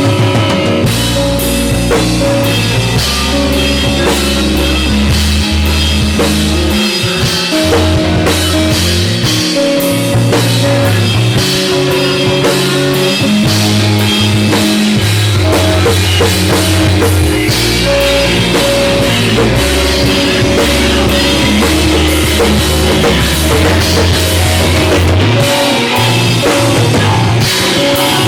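Rock band playing with drum kit, bass and guitar in a rough, loud recording.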